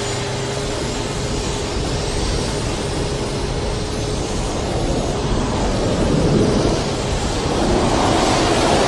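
The Big Wind's twin MiG-21 jet engines running at high throttle with water injected into the exhaust: a loud, steady rushing noise that swells slightly toward the end.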